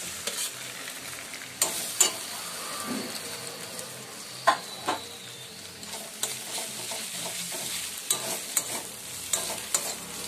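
Onions with ginger-garlic and cumin-chilli paste sizzling in mustard oil in a kadai, while a spatula stirs and scrapes the pan with sharp knocks every second or so.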